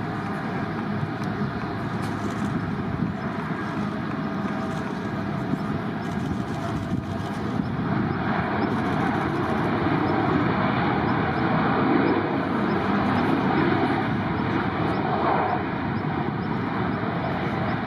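Jet airliner engine noise, a steady rumble that grows louder about ten seconds in and eases off near the end.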